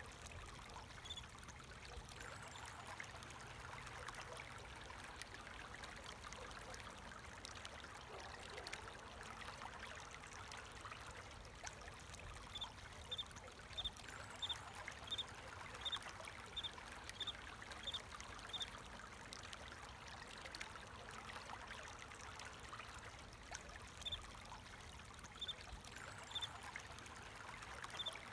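Water running and trickling in a small stream, with a cricket chirping about two times a second in two spells, one near the middle and one near the end.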